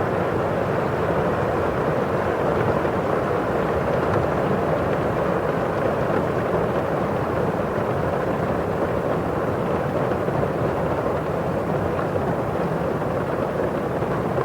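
Steady rain falling on a window pane and outside, an even hiss with no single drops standing out.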